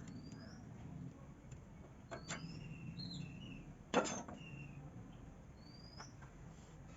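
Faint bird chirps: short rising notes repeating every couple of seconds over a low steady background rumble, with one sharp click about four seconds in.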